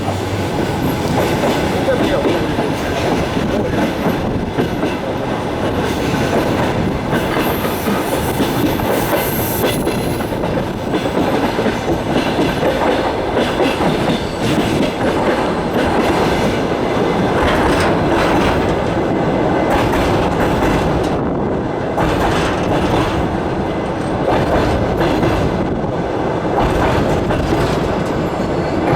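Passenger train running, its wheels clattering over the rail joints, heard from inside a carriage.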